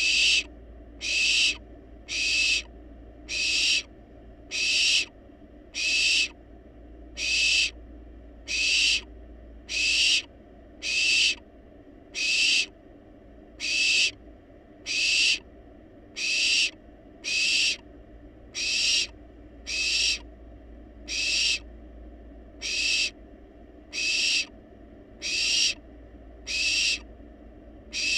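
Barn owl nestling giving its food-begging call, a harsh hissing rasp about half a second long, repeated steadily about once every second and a quarter.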